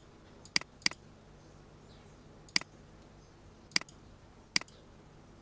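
Computer mouse button clicking five times at uneven intervals, sharp single clicks, two of them close together near the start.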